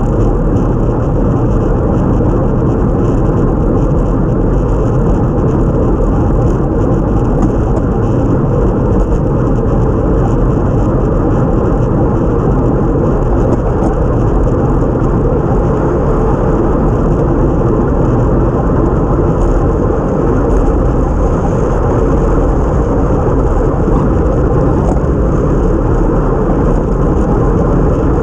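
Steady, loud rush of wind buffeting a bike-mounted action camera's microphone at racing speed, mixed with tyre noise on a wet road.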